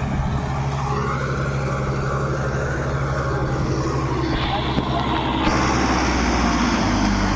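Kubota MU5502 tractor's 50 hp diesel engine running steadily, getting a little louder about five seconds in.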